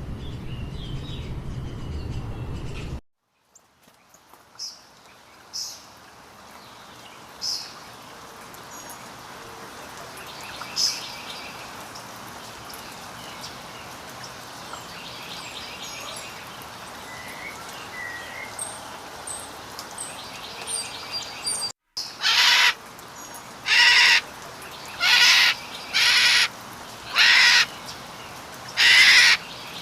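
Birds chirping and calling in several recordings joined by abrupt cuts. High chirps over a low hum open it, then scattered thin chirps and short trills follow. From about three-quarters of the way through, loud harsh calls repeat about once a second.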